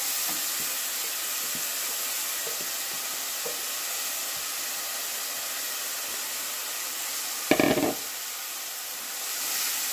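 Grated chayote frying in hot garlic and oil in a saucepan, with a steady sizzle and the light scrape and tap of a wooden spoon stirring it. A brief loud clatter about seven and a half seconds in.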